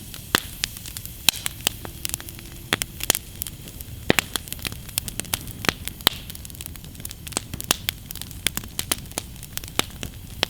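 Wood campfire of freshly lit kindling crackling, with irregular sharp pops, several a second at times, over a steady low hiss of burning.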